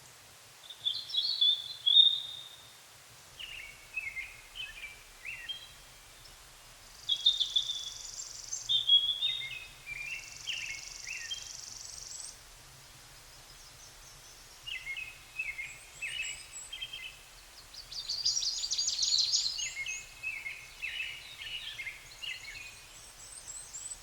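Songbirds singing: short varied whistled phrases and chirps with pauses between them, and a fast trill about three quarters of the way through.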